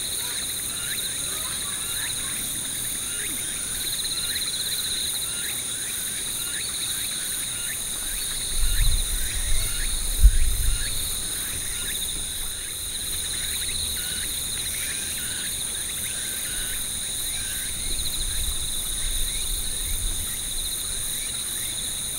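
Autumn field insects trilling steadily in two high, even tones, one with a fast pulse, over many short, quick falling chirps. Low rumbles come in twice, around the middle and again near the end, the loudest around the middle.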